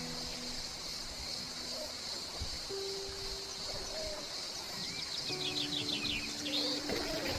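Birds chirping, with a quick run of repeated chirps about five to seven seconds in, over a steady high-pitched hiss and long held low notes of music.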